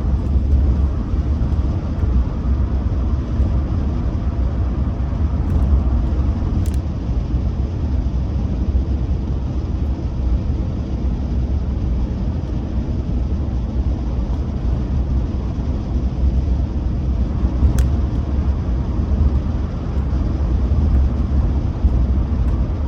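Steady low rumble of a car driving along a road, heard from inside the cabin: engine and tyre noise at an even pace.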